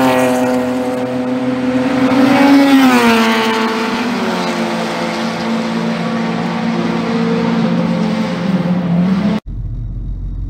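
A car's engine running hard on a race circuit, its pitch gliding down about three seconds in and dipping again near the end. It cuts off abruptly, giving way to a low, steady rumble inside a car.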